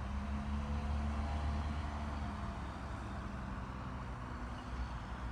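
A motor vehicle's engine running: a low rumble with a steady hum, strongest in the first couple of seconds and then easing off.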